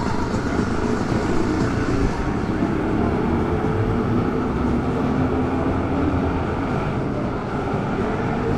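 Street traffic: a motor vehicle's engine running close by, a steady low rumble with a faint hum held in it.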